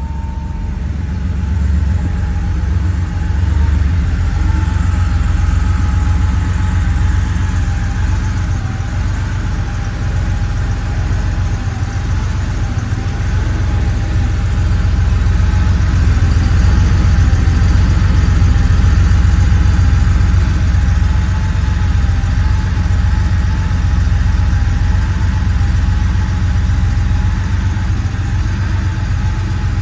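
1989 Porsche 911 Turbo's air-cooled turbocharged flat-six idling steadily after a cold start, a low even rumble with a faint whine that wavers slightly in pitch.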